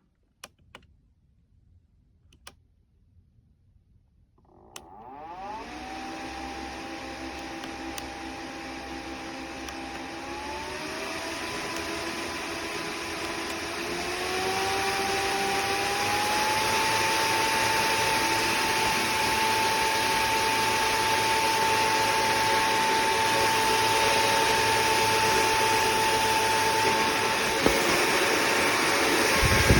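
Small brushless fan for air-conditioned work clothing spinning up after a few faint clicks, its motor tone and rush of air stepping up in pitch and loudness twice as the speed setting is raised. It then runs steadily at full speed, with a click near the end.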